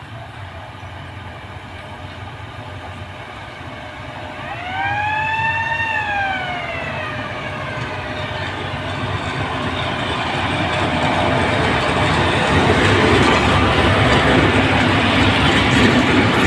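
A train sounds its horn about four seconds in, one blast of a couple of seconds whose pitch rises and then slides down. The train then draws closer, its running and wheel-on-rail noise growing steadily louder until it is loudest near the end.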